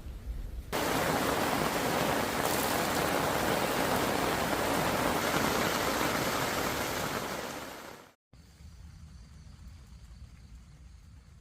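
Heavy rain pouring down, a loud steady hiss that starts abruptly about a second in and fades out after about seven seconds, followed by fainter steady noise.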